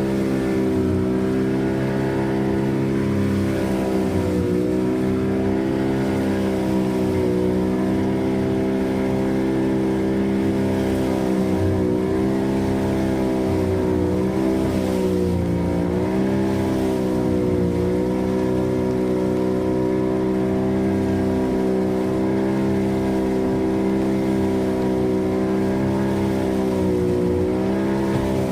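Small fishing boat's engine running steadily while trolling, its pitch dipping briefly now and then.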